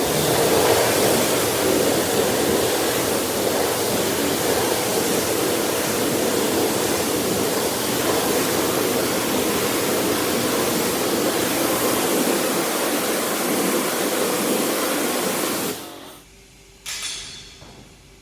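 Pressure washer spraying a steady jet of water onto a car wheel, rinsing off the degreaser. The loud hiss cuts off about 16 seconds in, and a brief second spray follows a second later.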